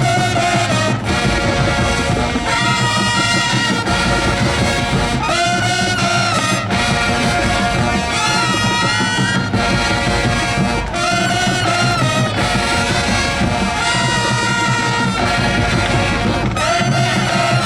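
High school marching band playing at full volume: brass melody over drums, in repeated phrases.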